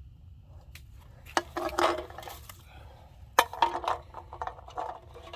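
Empty aluminium drink cans knocking and clattering together with a metallic ring, in two bouts about two seconds apart, each starting with a sharp knock.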